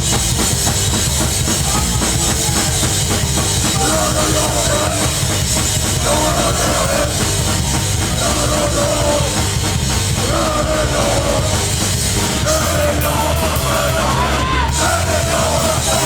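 Live hardcore punk band playing loud and fast: distorted guitars and a drum kit, with shouted vocals coming in about four seconds in.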